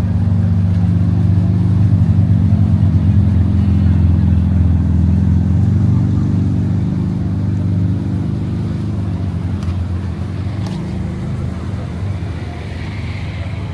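A car engine running loud and close with a low, pulsing rumble. It is strongest over the first half and fades away through the second half, as if the car is pulling away.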